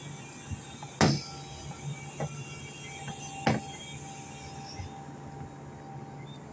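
Sharp knocks and clanks from hands-on work on an air-conditioning unit: two loud ones about a second and three and a half seconds in, with a lighter one between. Under them a steady low hum and a high hiss, the hiss dying away about five seconds in.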